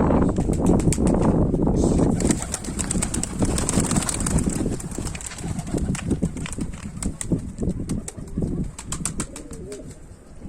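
Domestic pigeons cooing, loudest and densest in the first two seconds, with many short sharp taps and scratches mixed in.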